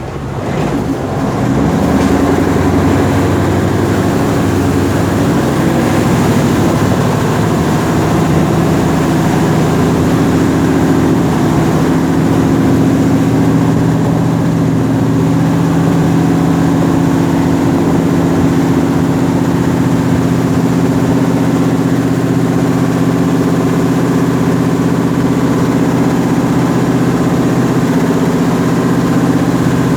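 Diesel engine of a Khlong Saen Saep canal express boat running loudly, building up over the first two seconds and then holding steady.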